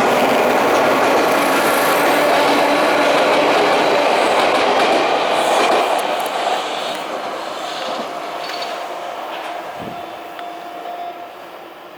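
Sagami Railway 8000 series electric train running, its wheel and running noise loud for about the first half, then fading steadily as it moves away. A thin steady whine holds for a few seconds during the fade.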